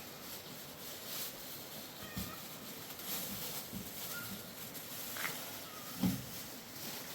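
An animal's short, faint cries, several times, over a steady hiss, with a couple of low thumps.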